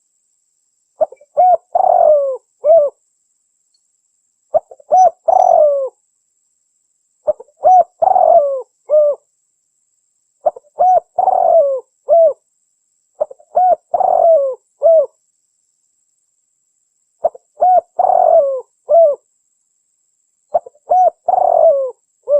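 Spotted dove cooing: seven repeated phrases about every three seconds, each a couple of short coos, a longer rolling coo and a short closing note.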